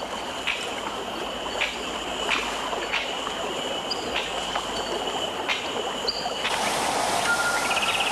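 Stream water flowing, with a steady high tone, faint ticks about once a second and a few short high chirps over it. About six and a half seconds in it changes to a louder, fuller rush of water.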